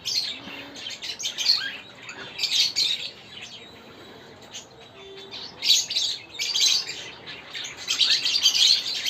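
Aviary birds chirping in several short bouts of high calls, with quieter gaps between.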